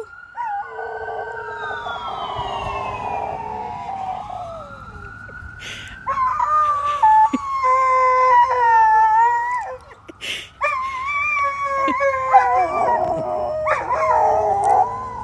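An ambulance siren wailing, its pitch sweeping up and down, with dogs howling along. The howls take over about six seconds in, and several overlap near the end.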